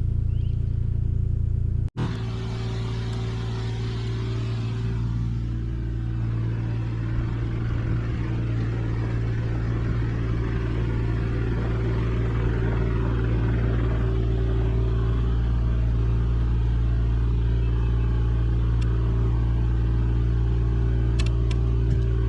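Diesel engine of a Kubota excavator running steadily under work, with a brief sudden dropout about two seconds in and a few sharp knocks near the end.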